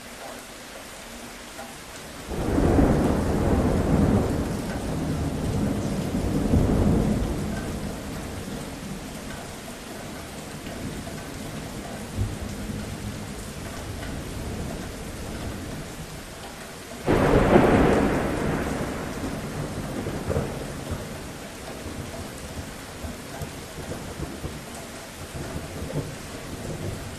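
Steady rain with two rolls of thunder. The first breaks in suddenly about two seconds in and rumbles for several seconds; the second starts abruptly about two-thirds of the way through and fades away over a few seconds.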